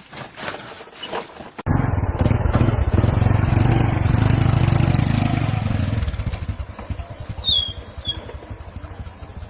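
A small engine starts abruptly about two seconds in and runs loudly and steadily for several seconds, then fades away.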